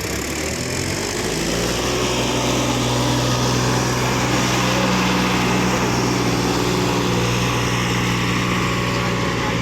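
Tractor diesel engine revving up over about the first second and a half, then held steady at high revs.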